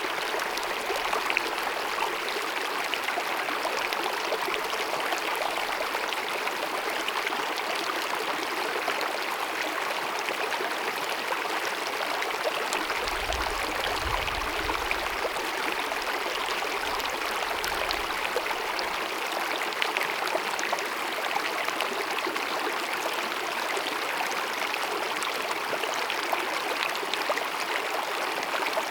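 Small glacier-fed mountain meadow stream babbling and cascading, a steady rush of running water.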